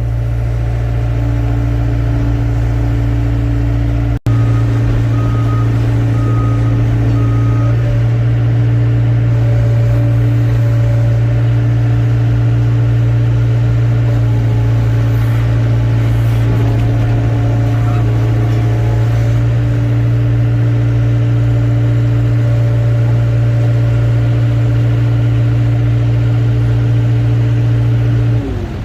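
Excavator engine and hydraulics running at a steady, constant pitch, with a few short high beeps a few seconds in. The sound cuts out for an instant about four seconds in, and the pitch drops near the end.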